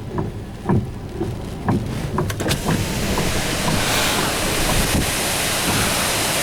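Severe thunderstorm winds of about 50 mph gusting. Irregular low thumps of wind buffeting the microphone come first, then about three seconds in a steady, loud rushing of wind through the trees builds up and holds.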